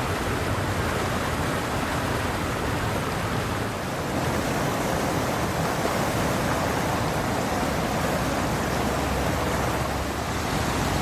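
Steady rushing noise of a heavy rainstorm: rain and running water.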